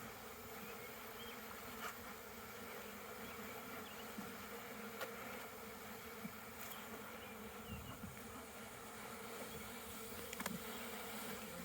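Honeybees buzzing in a steady, faint hum over an opened hive, with a few faint clicks.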